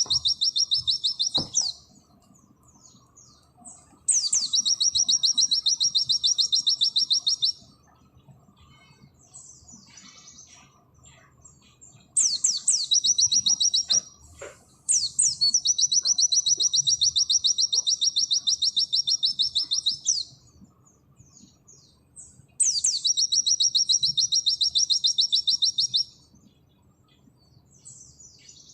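A pleci (white-eye) singing its 'nembak' song: a series of long, very fast, high-pitched trills, each lasting a few seconds. Soft chips and short calls fill the gaps between trills.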